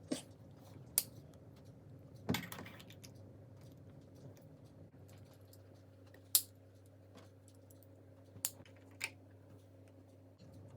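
Plastic LEGO pieces clicking and rattling: scattered sharp clicks, with a brief rattle of pieces about two seconds in, over a steady low hum.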